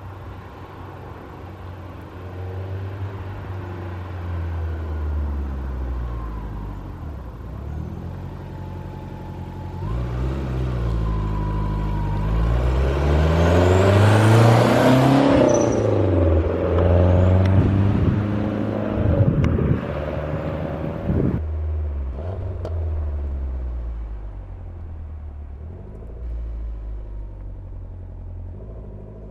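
1989 Lancia Delta HF Integrale 16V's turbocharged four-cylinder engine being driven hard, its pitch climbing and dropping several times. It is loudest around the middle, then eases back to a steadier, quieter run near the end.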